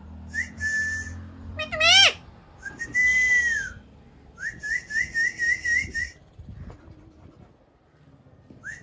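Whistles and a parrot call. There are steady, arched and wavering whistles near one pitch, and a loud rising, buzzy parrot call about two seconds in. It may be a pet parrot trading whistles with a person.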